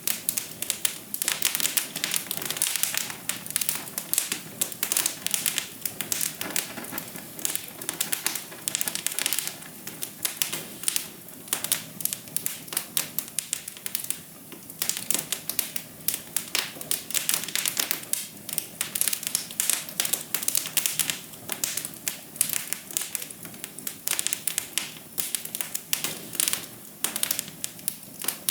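Wood fire crackling in a fireplace, a dense, irregular stream of small pops and snaps.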